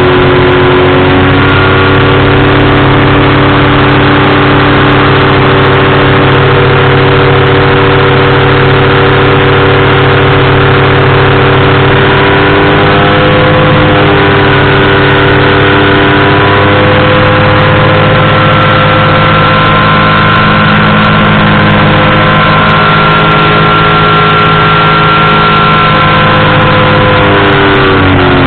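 Powered parachute's engine and propeller running steadily in flight, loud and close, the pitch wandering slightly with the throttle and dropping near the end.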